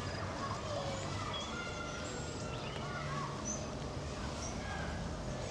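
Outdoor ambience of indistinct chatter from people walking by, with short bird chirps over a steady low background.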